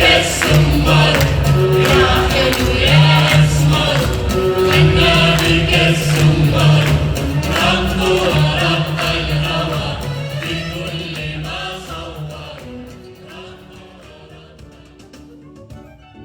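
A choir of voices singing with percussion accompaniment, fading away over the last few seconds and leaving a few quieter instrumental notes near the end.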